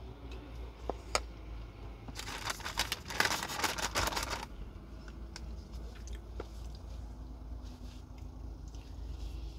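Close-up chewing of a mouthful of stewed cabbage and chicken, with a few small clicks. About two seconds in there is a loud crinkling rustle that lasts roughly two seconds. A steady low hum runs underneath.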